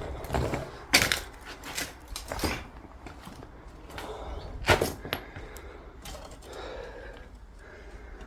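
A few sharp knocks and cracks at irregular intervals, with low scuffing and rustling between them.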